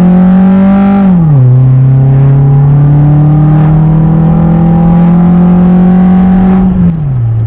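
Honda Accord engine running through a cheap aftermarket DNA catback exhaust, under load and loud. Its pitch falls sharply about a second in, holds a steady drone, then falls again near the end.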